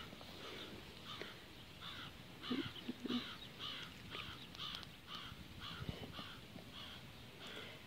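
A bird calling over and over, short faint calls at about two a second, with a few light knocks of plastic toy parts being handled.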